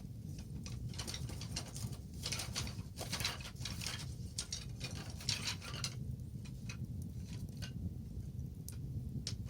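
Wood bonfire crackling, with many quick snaps and pops that come thickest in the middle and thin out near the end.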